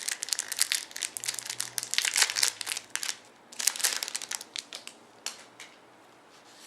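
Foil trading-card pack wrapper being crinkled and torn open by hand, in dense crackly bursts that thin out to a few scattered crackles near the end.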